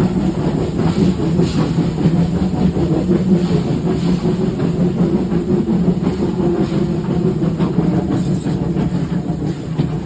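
A train hauled by a TKh-class steam tank locomotive running along the rails, heard from the train: a steady low rumble with the clatter of the wheels over the track.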